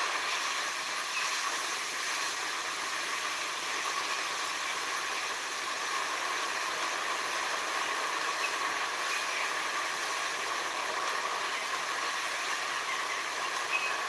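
Steady, even hiss of a sea-and-forest nature ambience, with a few faint short chirps now and then.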